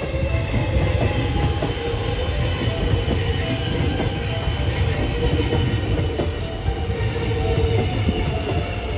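Melbourne Metro X'Trapolis electric suburban train passing close by: a steady rumble of its wheels on the rails, with a thin high whine over it.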